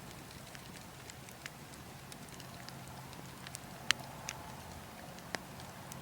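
Wood fire burning, with scattered sharp crackles and pops over a steady low rush of wind; the loudest pop comes about four seconds in.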